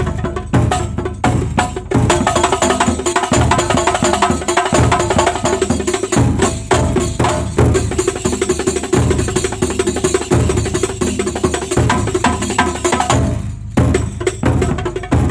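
Kuntulan ensemble of frame drums and percussion playing a fast, dense rhythm, with a steady pitched tone under the drumming. The playing breaks off for a moment near the end and then starts again.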